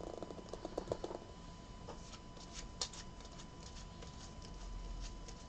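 Trading cards being handled and flicked through, card sliding against card: a quick run of soft flicks in the first second, then a few scattered clicks.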